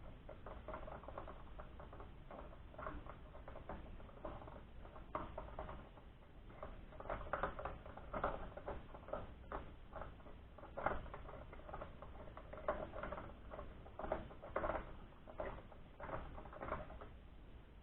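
Fluorescent light starter being fitted into its socket by hand: faint, irregular plastic clicks, taps and scraping as its pins are worked into the holes, a little busier in the second half.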